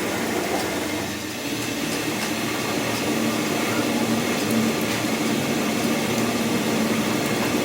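Steady machine running, a low hum over even noise that grows a little stronger about halfway through.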